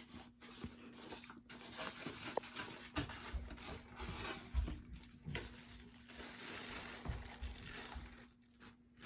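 Crinkling and rustling of packaging as a model train car is unpacked from its box.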